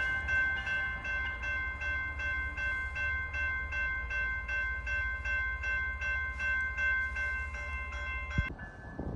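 A railroad bell ringing about three strokes a second over the low rumble of a train, both cutting off about eight and a half seconds in.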